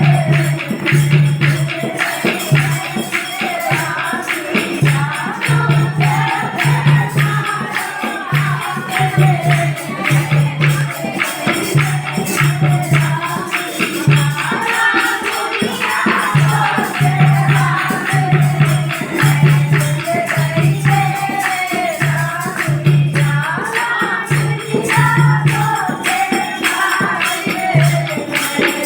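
Indian folk devotional song, a Languriya bhajan: singing over a steady drum beat and continual tambourine-like jingling percussion.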